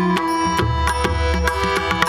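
Instrumental passage of a Marathi devotional abhang: tabla playing quick, even strokes with deep bass strokes, under a steady held melody from an accompanying instrument.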